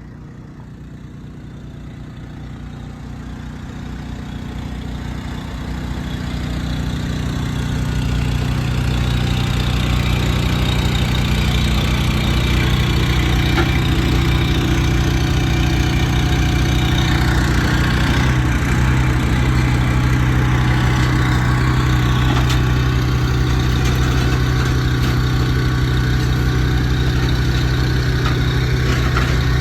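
Large truck engine idling, growing louder over the first eight seconds or so and then running steady.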